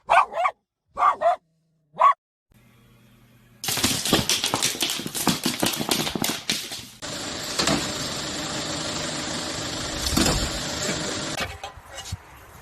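A dog barks three times in short, separate barks, followed by a long stretch of loud, crackling noise that turns into a steadier hiss and dies away near the end.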